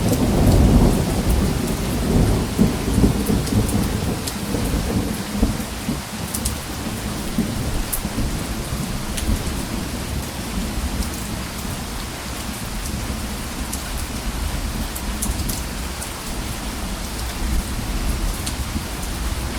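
Thunderstorm: a low rumble of thunder in the first few seconds that fades away, over steady rain with scattered sharp drop ticks.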